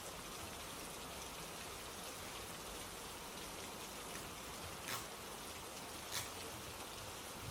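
Steady rain falling, an even hiss of drops, with two sharper ticks standing out about five and six seconds in.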